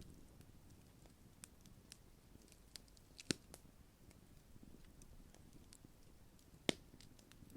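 Large wood campfire burning: faint scattered crackles and snaps over a low, steady rush of flame, with two sharper pops, one about three seconds in and one near the end.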